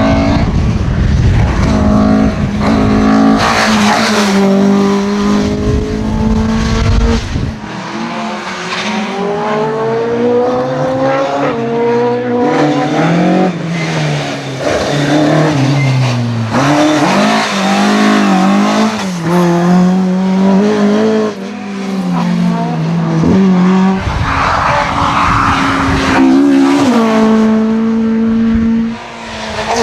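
Rally car engine at high revs, its pitch climbing and dropping again and again through gear changes and throttle lifts. A heavy low rumble lies under it for the first seven seconds and again near the end.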